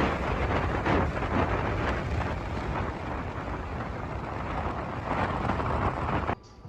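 Loud rushing noise of wind buffeting the microphone, with a heavy low rumble. It cuts off abruptly near the end.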